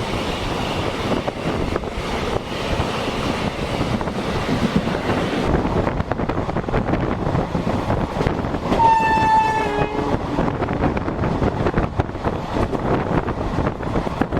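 A passenger coach running along the track, with a steady rumble and rattle of wheels on rail. About nine seconds in, a train horn sounds for about a second, dropping to a lower note just before it stops.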